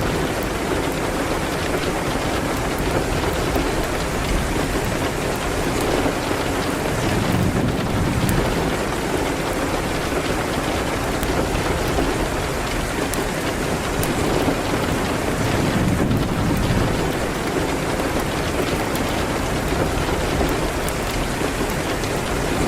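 Steady heavy rain with a fireplace, in one continuous bed of noise. Fine sharp crackles are scattered through it, and a low rumble swells and fades every few seconds.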